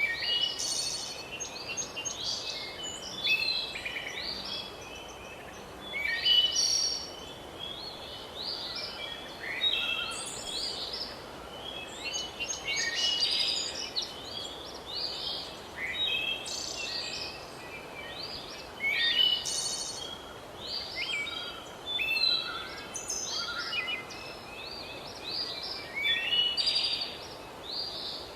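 A chorus of many birds singing and calling, with short overlapping chirps and whistles in quick succession over a faint steady hiss.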